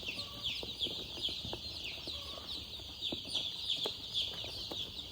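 A flock of baby chicks peeping continuously: many short, high, falling peeps overlapping, with a few soft taps among them.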